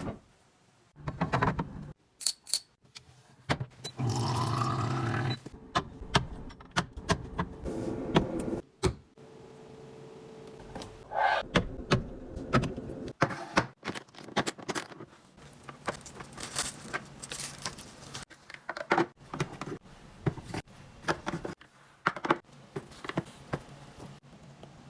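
Handling sounds of kitchen restocking: a string of clicks, taps and thunks as containers, lids and packaging are picked up, opened and set down, with a louder steady sound lasting just over a second about four seconds in.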